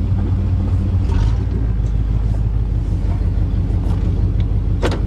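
1988 Chevrolet pickup truck driving, a steady low engine and road rumble heard from inside the cab, with a single sharp click just before the end.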